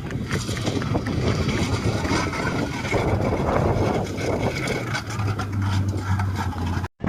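Rally car engine running hard amid heavy road and wind noise, with a steady low engine note in the second half. The sound cuts off abruptly near the end.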